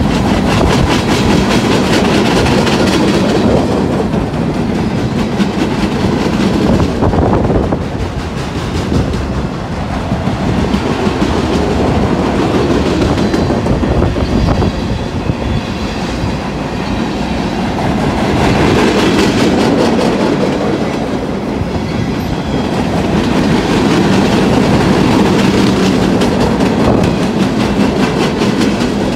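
Freight train cars rolling past with a steady rumble and wheel clatter on the rails, the sound swelling and easing every several seconds as cars go by.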